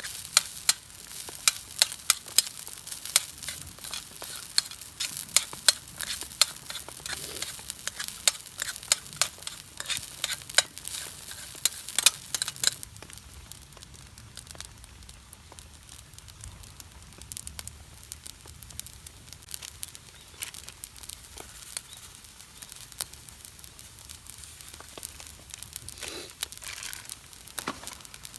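Food frying in a pan, with many sharp clicks of a utensil stirring against the pan for about the first twelve seconds, then a quieter sizzle with occasional clicks.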